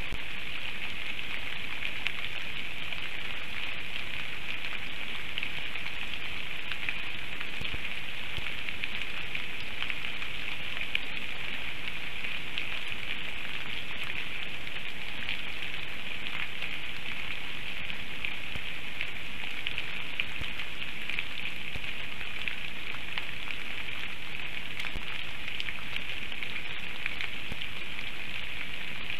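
Heavy rain falling steadily on the forest and the nest: an even, unbroken patter of many small drops.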